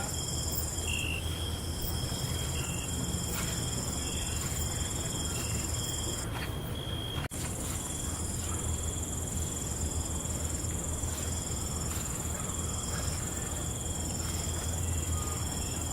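Night insect chorus of crickets: several steady high trills at different pitches, over a low steady rumble. The sound drops out for an instant about seven seconds in.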